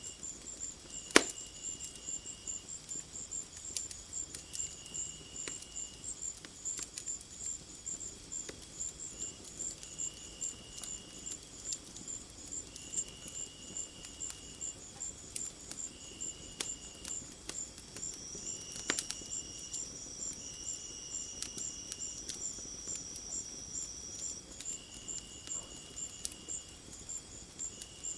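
Night insects such as crickets chirping: a rapid, even high-pitched pulsing chirp, with a lower trill coming and going every couple of seconds. Beneath them, a wood fire crackles faintly, with two sharp pops, one about a second in and one about two-thirds through.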